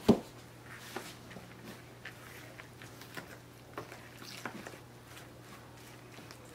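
A sharp knock at the start, then scattered light taps and soft squishy sounds as cassava dough (massa puba) is spooned into a pan of batter.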